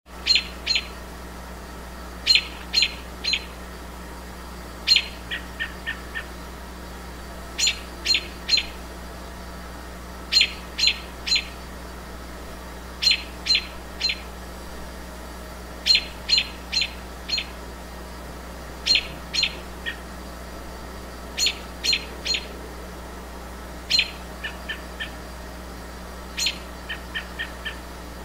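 A bird calling over and over: groups of two to four short, sharp high notes about every two and a half seconds, now and then followed by a quick run of four softer, lower notes.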